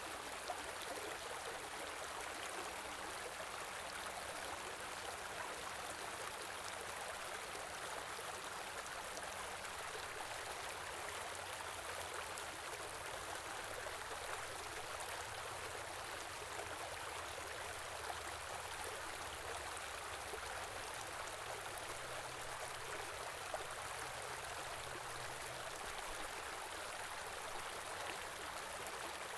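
Winter stream flowing steadily, an even rushing of water with small splashes.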